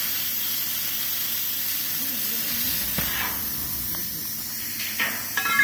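Wood fire burning in a homemade brick grill-fireplace with a steady hiss, and a brief louder sound near the end.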